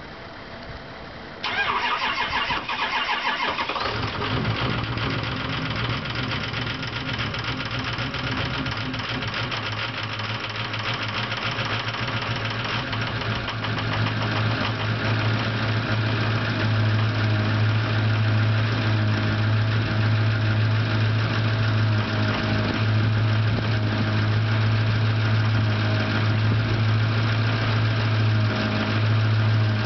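Ford 6.0 PowerStroke V8 turbo-diesel with a straight-pipe exhaust cold-starting. The starter cranks and the engine fires about a second and a half in, then settles by about four seconds into a steady cold idle. One cylinder runs a little off, which the owner puts down to a worn exhaust lobe on the cam.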